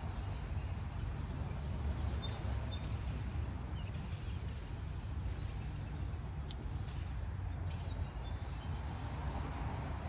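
Steady low background rumble with a small bird giving a short run of high, thin chirps between about one and two and a half seconds in.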